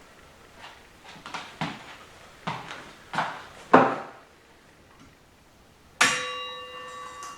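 Metal transmission parts knocking and clattering as they are handled, then one part is struck or set down about six seconds in and rings with a clear metallic tone that dies away.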